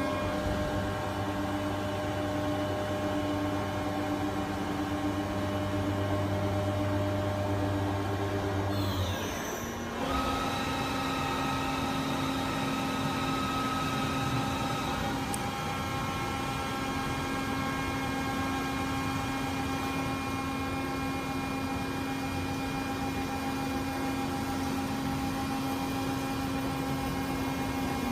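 AWEA LP-4025YZ CNC double-column machining center running, a steady mechanical hum with several whining tones. About nine seconds in, the low hum stops and a short falling whine leads into a different set of steady tones as the machine changes what it is doing.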